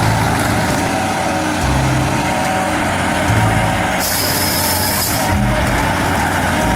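John Deere wheeled harvester at work, its engine running steadily, with a high hiss for about a second around four seconds in.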